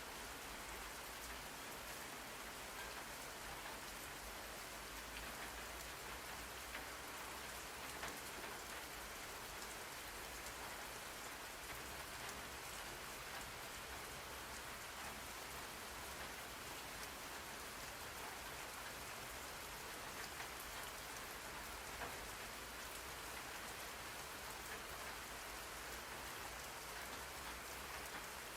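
Steady rain falling on a surface, an even hiss with many small drop ticks through it.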